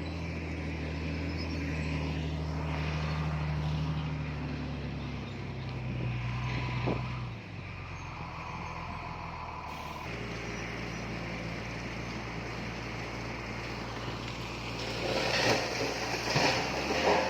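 Heavy diesel earthmoving machinery, a bulldozer or dump truck engine, running steadily, with louder clanking and rattling near the end.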